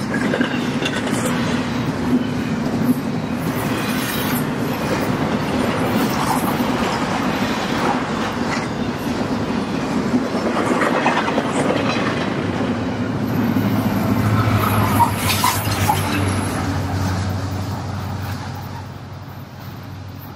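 Intermodal freight train cars rolling past, steel wheels clicking over the rail joints with a steady rumble. The sound fades over the last couple of seconds as the end of the train goes by.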